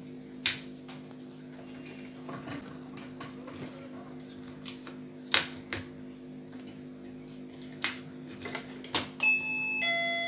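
A few sharp plastic clicks and knocks over a steady low hum. Near the end a wireless calling bell sounds its electronic chime: two bright tones, the second lower, ringing on.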